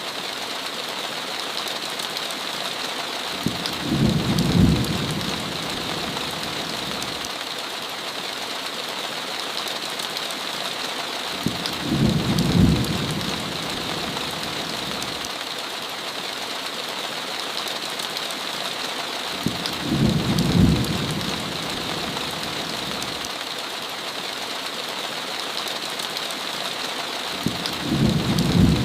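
Steady heavy rain, with a short low rumble of thunder about every eight seconds, four times in all, each lasting a second or two.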